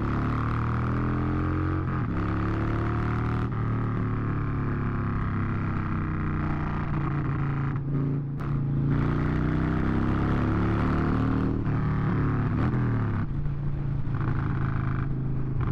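Harley-Davidson V-twin motorcycle engine running under way, its pitch climbing and dropping several times as the throttle is opened and rolled off.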